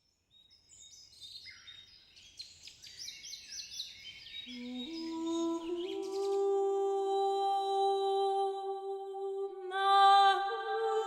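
High, rapid bird chirps and twittering for the first half, then soft music fades in with long held notes and swells louder near the end.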